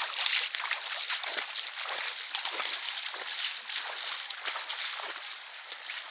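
Creek water splashing and sloshing around a van as it drives into a river crossing, a continuous rush of churned water.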